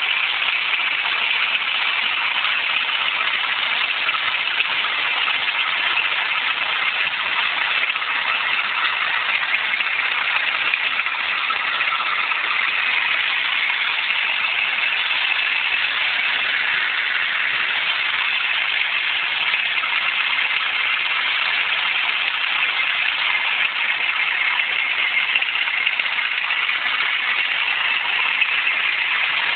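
Vauxhall Astra engine idling with a steady, unchanging grinding noise, the fault the owner is trying to trace.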